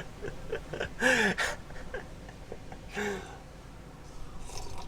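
A short wordless voice sound that rises and falls about a second in, and a weaker one about three seconds in, among light clicks and handling noises.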